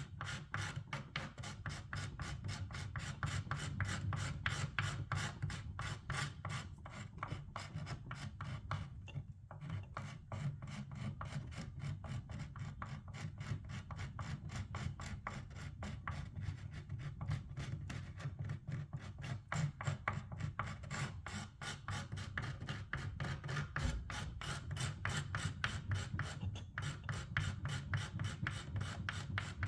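Old paint and finish being rubbed off a surface by hand in quick, regular back-and-forth strokes, about three a second, with a brief lull about nine seconds in.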